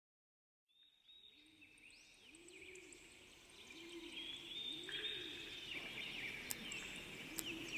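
Birds chirping and twittering over outdoor background noise, fading in after a moment of silence; a lower sound rises and falls about once a second underneath.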